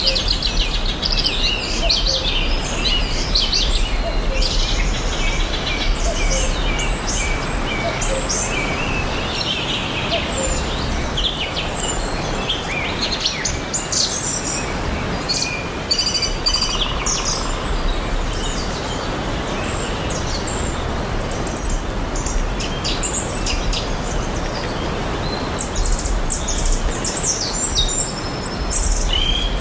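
A chorus of songbirds chirping and trilling, many short calls overlapping throughout, over a steady background hiss of forest and lake ambience.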